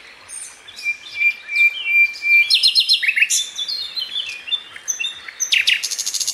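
Several small birds chirping and singing at once, with a held whistled note early on giving way to quick repeated chirps and trills.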